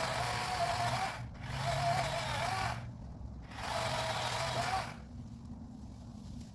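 Power saw cutting through a tree limb in three bursts a second or so long, the motor's whine wavering as the blade bites into the wood.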